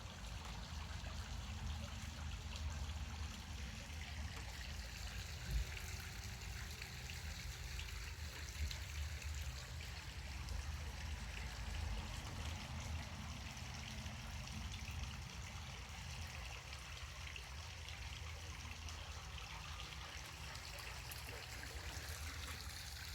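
Steady trickling, running water, with a low rumble underneath.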